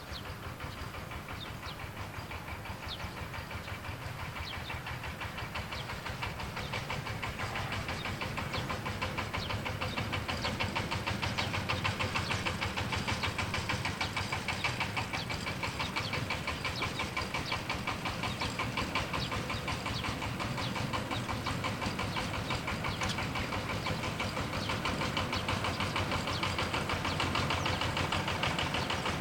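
An engine running steadily with a fast, even knocking beat, slowly growing louder.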